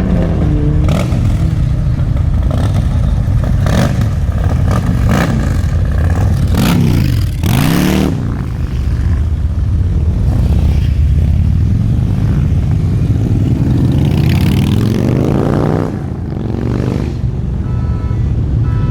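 Loud, throaty car engine rumble with the revs rising and falling: the pitch dips and climbs sharply about seven to eight seconds in, and climbs again about fifteen seconds in.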